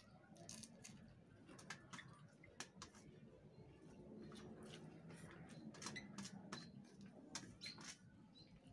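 Faint eating sounds: chewing fried salted fish and rice, with many small scattered clicks from the mouth and from fingers on the metal tray.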